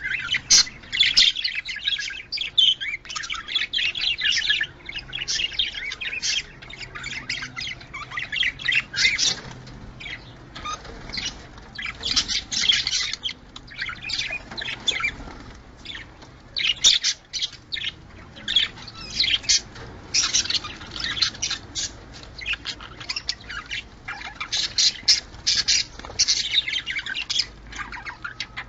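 Budgerigars chattering and warbling: a dense, unbroken stream of rapid high chirps in clusters, with short lulls.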